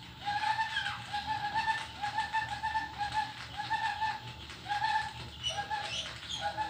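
Birds calling over and over in short, warbling pitched notes, about two calls a second.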